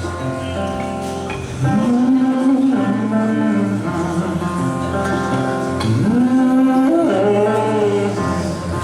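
Live acoustic rock music: acoustic guitar chords under a wordless sung melody that slides up into long held notes twice.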